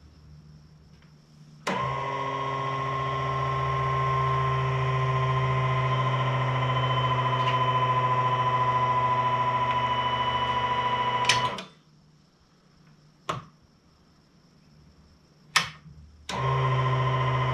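Electric fuel pump of a Cobra kit car's EFI system running dry with a steady buzzing whine for about ten seconds, then cutting off abruptly, followed by a few sharp clicks, and starting again near the end. It is running with no fuel in the system.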